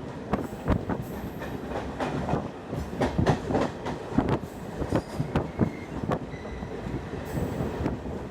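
An express train's coaches passing at speed, their wheels clattering over rail joints in an irregular run of sharp clicks over a steady rumble.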